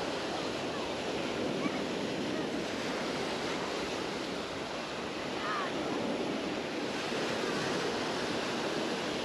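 Mediterranean surf washing onto the beach in a steady, unbroken wash.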